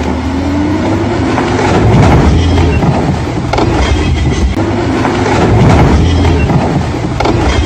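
Heavy truck engine labouring under load, rising in pitch over the first second or so, with a steady low rumble and intermittent knocks and clatter.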